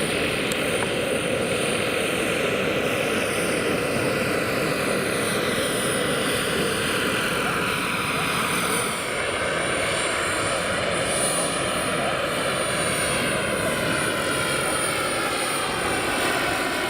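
Turbine engine of a large radio-controlled scale SA 315B Lama helicopter running steadily in flight, a steady high whine over the rush of the rotor, its tone slowly shifting as the model moves about.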